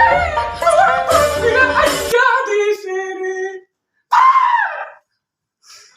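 A person's voice singing or wailing in a drawn-out, wavering line, ending on a held note, with a low hum under the first two seconds; about four seconds in comes a short shriek that rises and falls.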